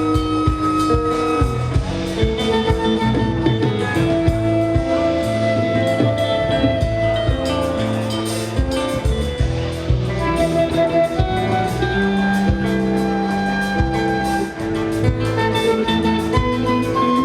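Live band playing an instrumental passage: guitar over bass and drum kit, with held notes changing every second or so and a steady drum beat.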